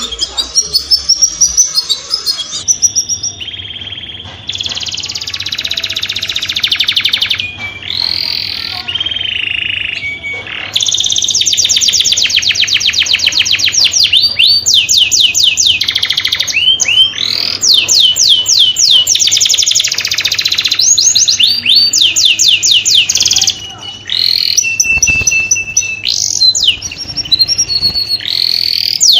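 Male canary singing a long, continuous song of fast trills and rolls, switching to a new phrase every second or two, with a short lull about three-quarters of the way through. This is the courtship song that breeders play to bring birds into mating condition.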